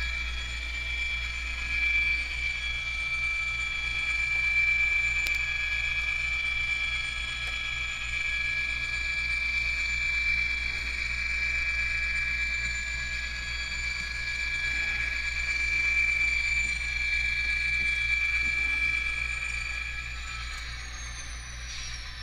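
Model train locomotive running along the layout track, giving a steady running sound with a constant high whine over a low hum.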